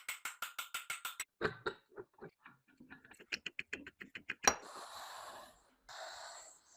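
Small metal parts of a rusted iron and brass mechanism being worked by hand: a quick run of clicks at about eight a second, then scattered clicks and one loud sharp click. It ends with two short bursts of scraping.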